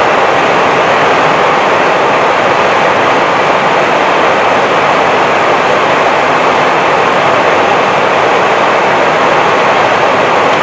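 Steady rush of airflow and engine noise on the flight deck of an Airbus A320 in flight, even and unbroken.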